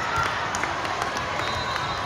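Spectators' crowd noise: overlapping chatter and shouts with a few brief sharp knocks.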